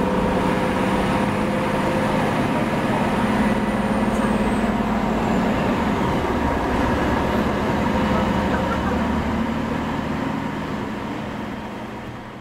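Running noise heard inside a KiHa E130 series diesel railcar under way: a steady low engine hum over an even rumble and rush. It fades out near the end.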